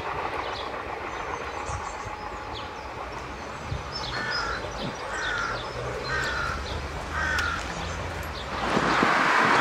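A bird calls four times, about a second apart, each call falling in pitch, over a steady outdoor background with a low hum. Near the end a rushing noise swells up and becomes the loudest sound.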